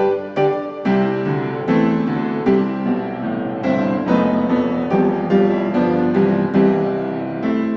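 Background piano music: repeated plucked-sounding notes at the start, then sustained chords from about a second in.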